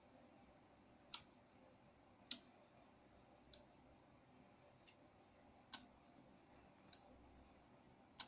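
A series of sharp single clicks, about one every second and a quarter, over a very quiet background.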